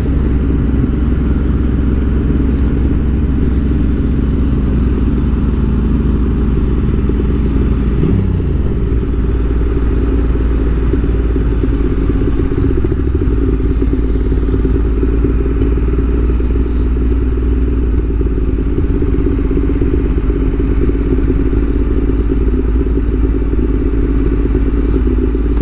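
Ducati Monster 1200 S's L-twin engine running steadily at a cruise, with a brief drop in pitch about eight seconds in.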